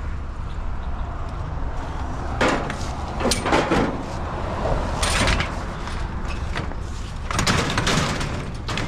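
Pieces of scrap metal clattering and scraping against each other as one is shoved and shifted in a loaded vehicle bed. There are several separate rattling scrapes, the longest near the end, over a steady low rumble.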